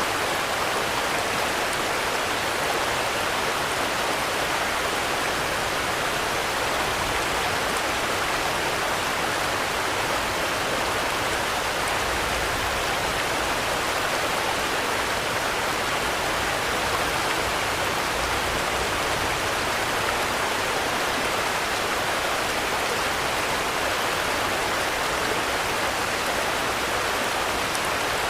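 Steady rain falling, an even hiss of rainfall without letup.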